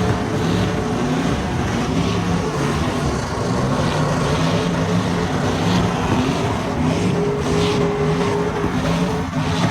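Truck engine revving hard, its pitch rising and falling again and again.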